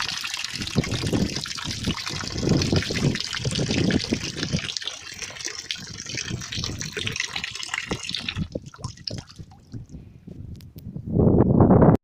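Water pouring steadily into a container as it is being filled with natural water. The flow stops about eight and a half seconds in, and a loud low noise follows near the end.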